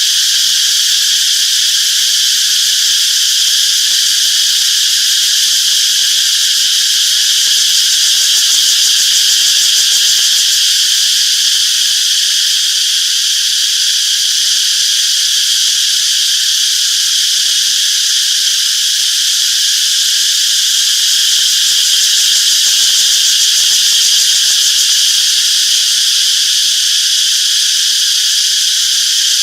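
Cicadas chorusing: a dense, unbroken high-pitched drone that holds steady in level.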